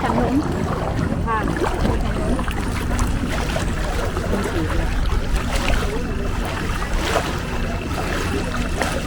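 Longtail boat engine running steadily, a low even drone, with faint voices in the first couple of seconds.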